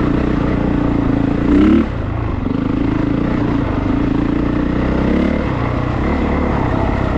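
Honda CRF450RX dirt bike's single-cylinder four-stroke engine running steadily, with a brief rev rising in pitch about a second and a half in.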